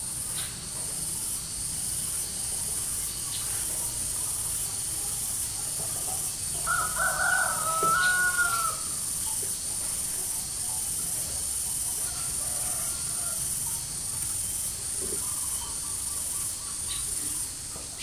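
A bird gives one clear call lasting about two seconds, hooking up and down in pitch at its end, about seven seconds in, with fainter calls later. Under it runs a steady high insect buzz pulsing about once a second.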